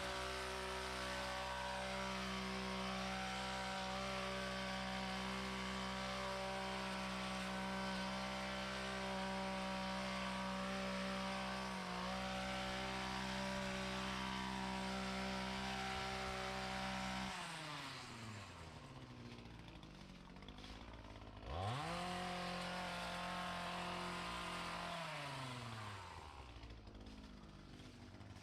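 Small two-stroke engine of handheld lawn equipment revving up and running steadily at full throttle, then dropping back to idle about 17 seconds in. It revs up once more for a few seconds and winds back down.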